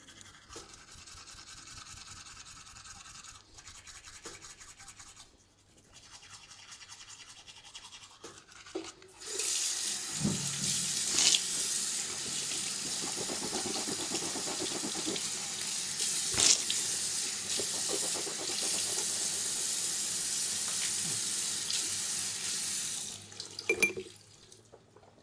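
Toothbrush scrubbing teeth: quieter scrubbing in short spells at first, then much louder, continuous scrubbing from about nine seconds that stops about two seconds before the end. A few knocks follow just after it stops.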